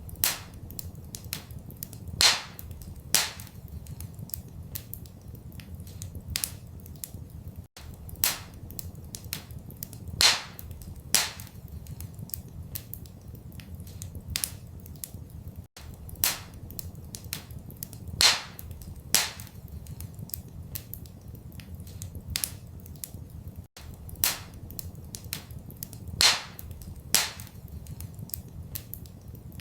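Wood fire crackling in a fireplace: steady small crackles with a loud pop every few seconds, over a low steady rumble. The same eight-second stretch repeats, with a brief dropout at each seam of the loop.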